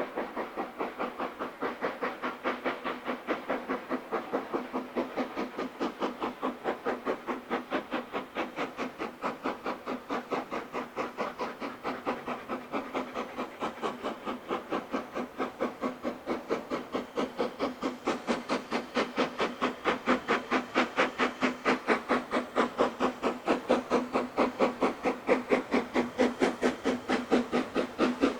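Steam locomotive working steam, its exhaust beating in an even rhythm of about four to five chuffs a second, growing louder through the second half.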